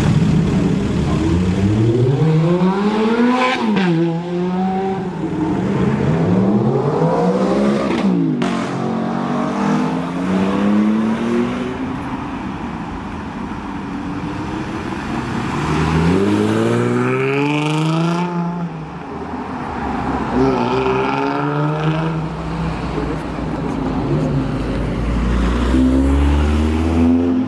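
Jaguar F-Type engine and exhaust accelerating hard through the gears. The engine note climbs and drops back at each upshift, with a sharp crack at the shift about eight seconds in. It eases off, then a second run climbs through the gears again from about sixteen seconds in.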